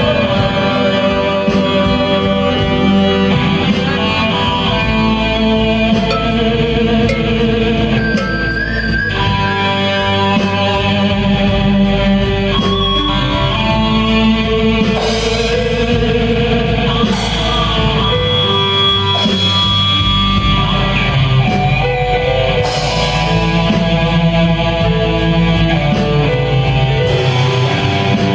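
Blues-rock band playing live, electric guitar to the fore with a steady beat underneath.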